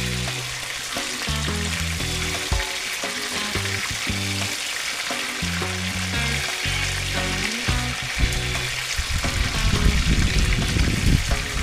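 Food sizzling as it fries in a pot, over background music with a bass line. From about nine seconds in, a low rumbling noise joins.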